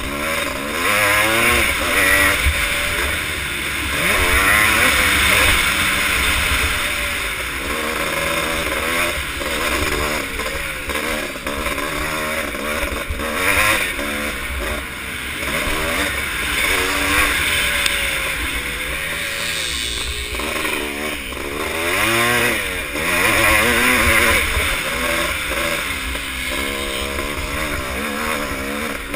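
Yamaha YZ465 two-stroke single-cylinder motocross engine under racing load, revving up and down again and again through the gears and corners. A flickering low rumble runs underneath.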